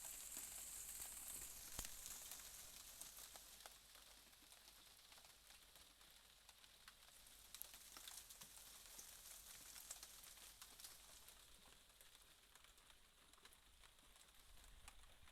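Faint rain during a night thunderstorm: a soft, even hiss dotted with scattered ticks of drops, easing quieter after about two seconds, with no thunder.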